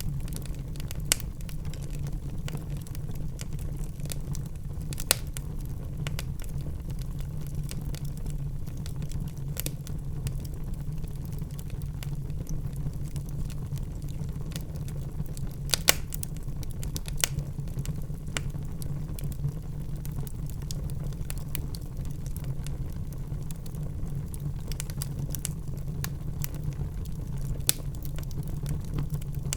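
Wood fire burning in a fireplace: a steady low rumble with frequent small crackles and a few sharp, louder pops, the loudest about 16 seconds in.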